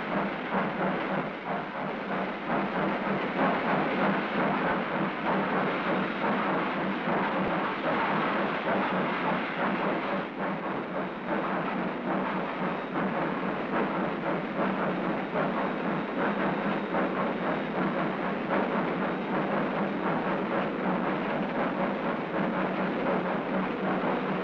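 A freight train's cars rolling past: a steady noise of steel wheels on rail with many small clicks and rattles. Heard through a thin, old optical film soundtrack with little bass or treble.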